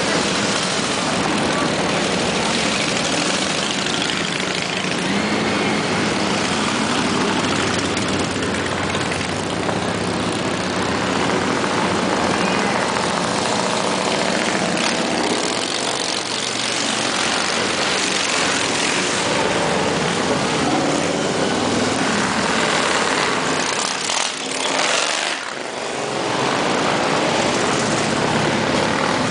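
A long column of motorcycles riding past one after another, their engines running in a continuous dense drone, with a brief lull near the end.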